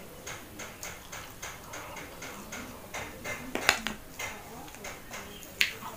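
Close-up chewing and lip-smacking of a mouthful of instant noodles: a steady run of small wet mouth clicks, about three a second. Around the middle and near the end come two sharper, louder clicks of cutlery against the plastic plate.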